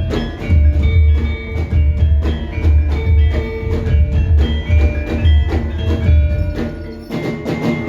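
Javanese gamelan music: struck metal keys and gongs ringing short pitched notes over a steady pattern of deep drum beats.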